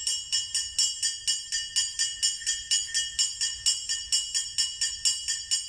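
Kane, a small Japanese hand gong, struck in a fast, even rhythm of about four to five strokes a second, each stroke a high, bell-like metallic ring. The strokes stop shortly after the end.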